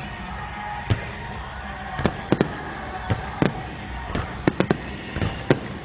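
Fireworks bursting in a run of sharp bangs, sparse at first and coming thick and fast after about two seconds, over the show's accompanying music.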